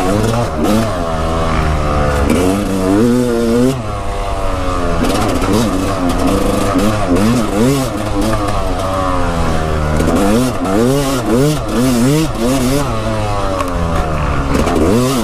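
Dirt bike engine revving up and down over and over while being ridden along a trail, its pitch rising and falling every second or two.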